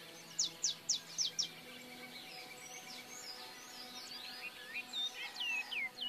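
Wild birds singing: a quick run of five sharp, high, downward-sweeping notes about half a second in, then scattered descending whistles and chirps from several birds.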